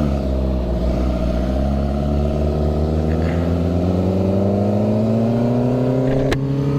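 Sportbike engine running close to the microphone, its pitch dipping briefly and then climbing slowly and steadily as the bike gathers speed. A single sharp click comes near the end.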